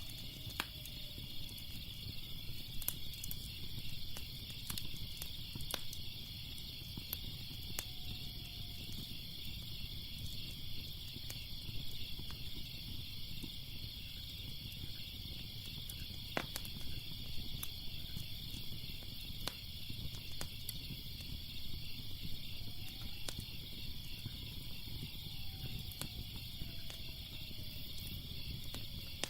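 Crackling fire with irregular sharp pops and a low steady rumble, under a continuous high-pitched chorus of crickets chirping.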